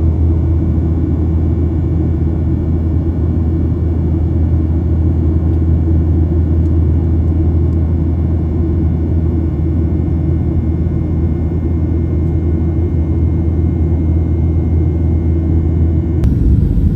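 Steady loud rumble of an airliner's engines and airframe heard from inside the cabin during takeoff. The sound changes abruptly near the end.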